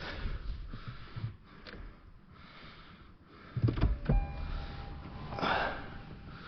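Someone getting into a car: shuffling and movement, then heavy thuds about four seconds in. Just after, a steady electronic tone starts and keeps sounding.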